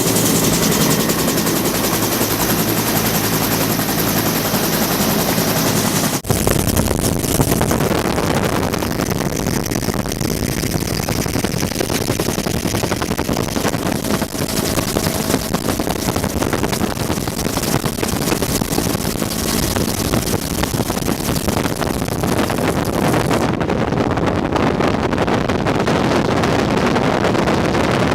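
Bell UH-1 Huey helicopter running, a steady whine over the rapid chopping beat of its two-bladed main rotor. The sound cuts abruptly about six seconds in and resumes as a denser, rougher rotor noise.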